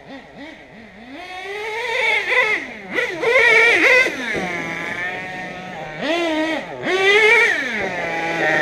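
HPI Savage nitro RC monster truck's small glow-fuel engine revving hard under throttle, its high-pitched buzz climbing and falling in pitch as the throttle is worked, easing off briefly twice before winding up again.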